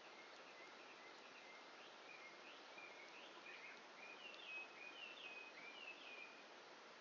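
A songbird singing a run of short, quick chirping notes that get louder about four seconds in and stop shortly before the end, over a faint steady hiss.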